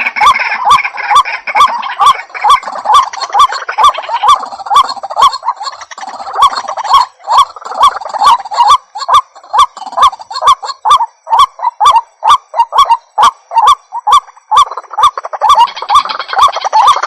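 White-breasted waterhen (ruak-ruak) calling: a loud, harsh note repeated evenly about three times a second without a break.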